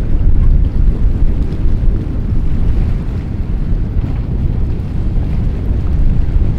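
Strong wind buffeting the microphone, a loud steady low rumble, over rough sea water at an inlet.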